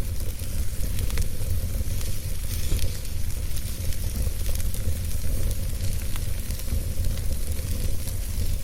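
Wood fire burning steadily: a continuous hiss over a low rumble, with many small scattered crackles and pops.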